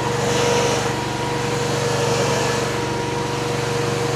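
Mini skid steer's engine running steadily while the machine holds a raised pallet load, with a constant whine over the engine note and a slight swell in hiss about half a second in.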